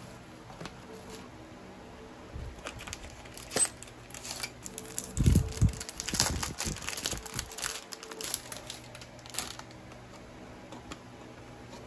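Plastic packaging crinkling and rustling as a scientific calculator is unpacked from a bubble-wrap mailer and its plastic-wrapped manual is handled, with scattered light taps and a couple of heavier knocks a little past the middle.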